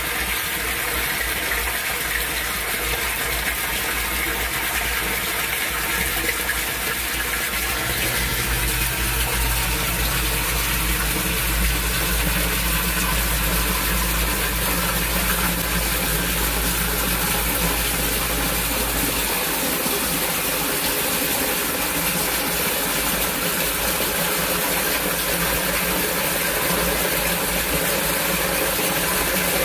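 Steady rush of water pouring into a yard drainage system in a torrential downpour. A low steady hum joins it about eight seconds in and stops about eleven seconds later.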